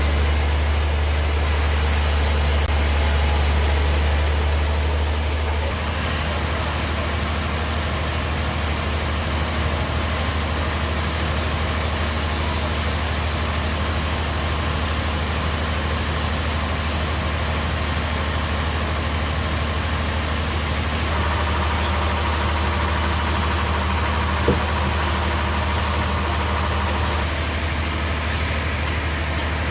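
Bandsaw sawmill running steadily: a deep, constant machine hum under a steady rush of noise. The sound changes at about six seconds and again about twenty seconds in, with one sharp click near the end.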